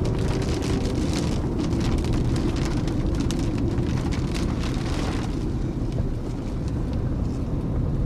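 Hailstones striking a car's roof and body in quick, irregular clicks and knocks over a steady low rumble. The strikes come thick at first and thin out after about five seconds.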